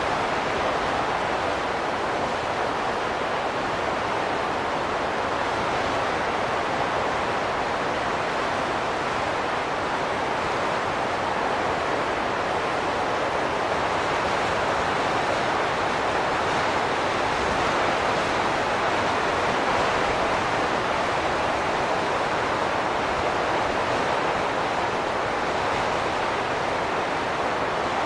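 Steady rushing wind noise, with no gusts, tones or other events.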